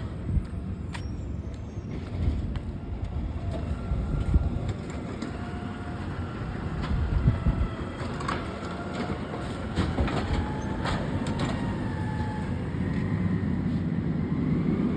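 Garbage truck running with a low engine rumble, scattered clanks and rattles from its body, and faint squealing tones that glide a little.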